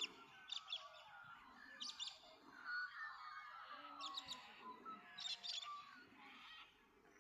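Several birds singing in a dawn chorus: clusters of short, high chirps come every second or two over a continuous warbling song. The song thins out near the end.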